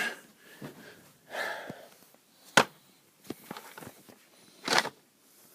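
Handling noise as a camera is set up and repositioned close to the microphone: one sharp click about two and a half seconds in, a few light knocks, and two short rushes of noise.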